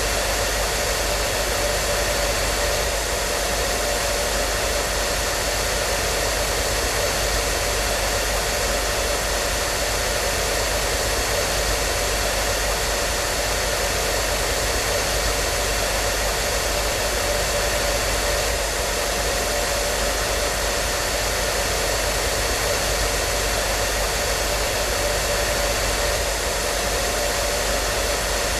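Hair dryer running steadily: a constant fan and air rush with a faint steady whine, no change in speed.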